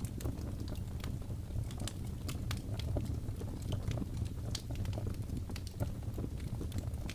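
Wood fire burning: a steady low rumble with frequent sharp crackles and pops from the burning wood.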